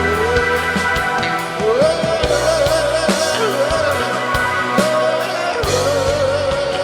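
Live rock band playing an instrumental break: a lead melody with upward slides and wavering vibrato over drums and sustained chords. The bass drops out for a couple of seconds in the middle, then returns.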